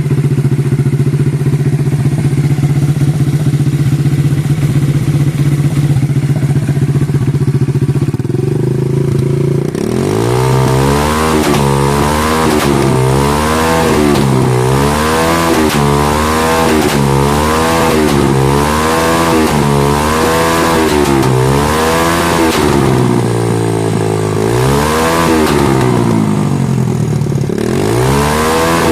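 130cc motorcycle engine idling steadily, then from about ten seconds in revved over and over, its pitch rising and falling roughly once a second, with a few longer revs near the end.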